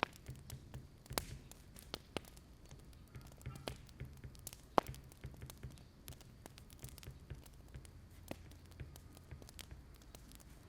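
Wood fire crackling: irregular sharp pops and snaps, one louder pop near the middle, over a steady low rumble of the flames.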